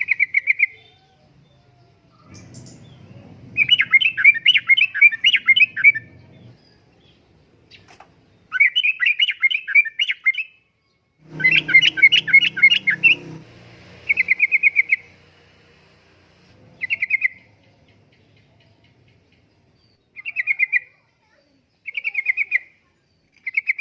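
Yellow-vented bulbul (trucukan) singing: about ten phrases of rapid, bubbling notes, each one to two seconds long, with short pauses between. A faint low rumble runs under two of the longer phrases.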